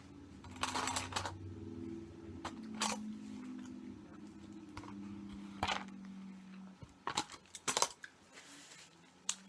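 Sharp clicks and crinkles from food and its plastic packaging being handled during a meal, a cluster about a second in and another around seven to eight seconds in, over a faint steady low hum.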